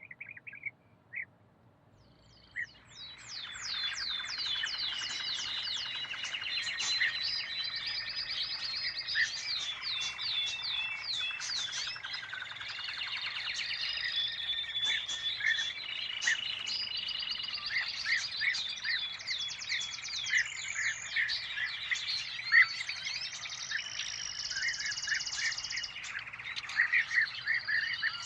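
Songbirds singing together in a dense chorus of overlapping rapid trills, chirps and whistles. It swells up about three seconds in after a few isolated chirps.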